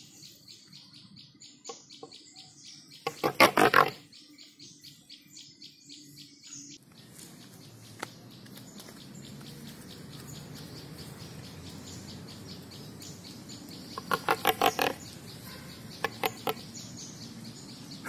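Birds calling: a quick run of high chirps through the first seven seconds, and a loud burst of rapid calls about three seconds in and again around fourteen seconds.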